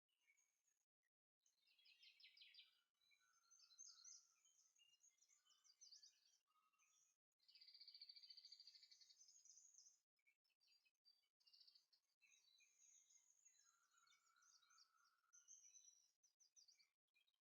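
Faint birdsong: a string of high chirps and quick trills, one after another.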